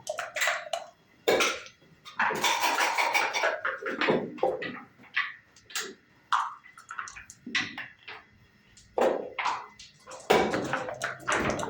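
Backgammon play: dice bouncing on the board and checkers clacking as they are moved, an irregular run of sharp clicks and knocks with a brief ring after some of them.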